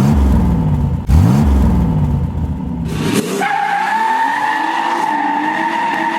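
A car engine revving hard twice, then tyres screeching in a long steady squeal, as in a burnout, that cuts off suddenly.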